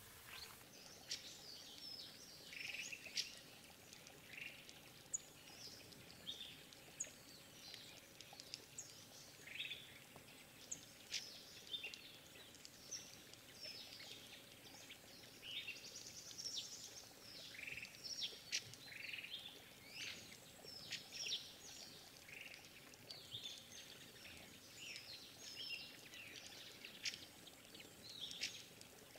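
Forest birds giving many short, high chirps and call notes, several a second at times, some in quick runs, over a faint steady background hiss.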